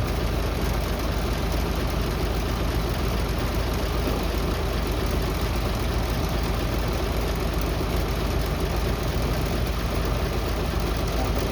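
City bus engine idling steadily.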